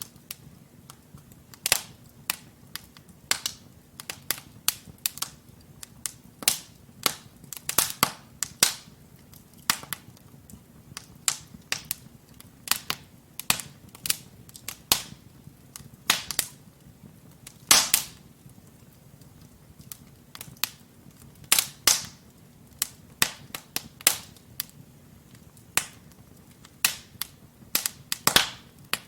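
Wood fire in a fireplace crackling: burning logs give irregular sharp pops and snaps, several a second, with a few louder cracks among them, over a faint low rumble of the flames.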